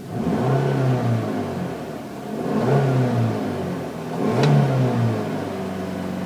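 Volkswagen Eos's 2-litre four-cylinder petrol engine being revved in three short blips, each rising and falling in pitch over about a second.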